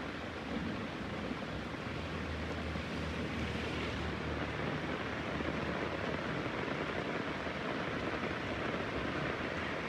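Heavy rain falling in a steady hiss, with a low rumble underneath in the first few seconds.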